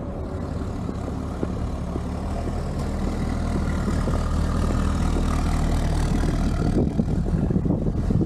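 Car engine running with road noise. The engine note rises slightly and grows a little louder about two seconds in, and a rougher rumble comes in near the end.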